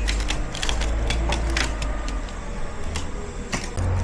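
Box truck's engine running, heard from inside the cab as a steady low hum, with many sharp clicks and rattles over it. The engine note steps up near the end.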